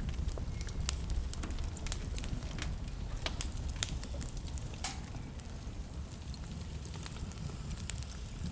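Wood fire burning in a fireplace: a steady low rumble of flames with frequent sharp crackles and pops scattered irregularly, one louder pop about five seconds in.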